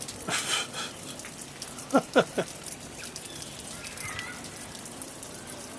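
Steady light patter of falling precipitation on outdoor surfaces, with a short hiss about half a second in. About two seconds in come three quick chirp-like calls, and a faint one follows about four seconds in.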